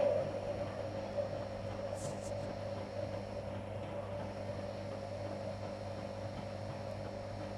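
Whirlpool FL 5065 washing machine running its wash cycle: a steady motor hum with constant tones, and two faint clicks about two seconds in.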